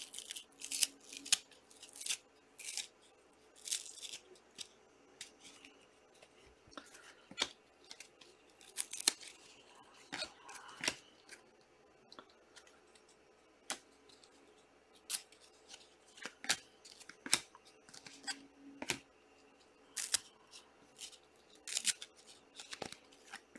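A pack of trading cards being opened and the cards handled: an irregular string of short, sharp crinkles, snips and clicks from the wrapper and cards.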